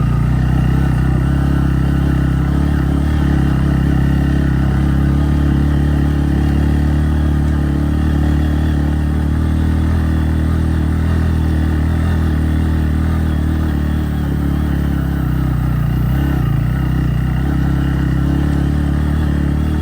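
Motorcycle engine running steadily under load, pulling up a steep, rough dirt road.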